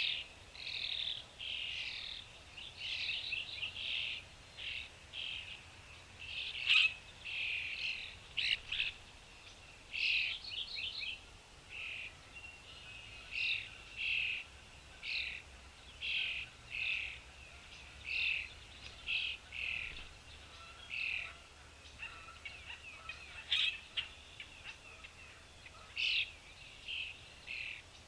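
Small birds chirping: a long run of short, high chirps, about one or two a second, some in quick clusters.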